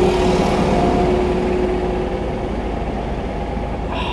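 Tractor engines running in a low steady rumble, with a steady droning tone that fades away about two and a half seconds in.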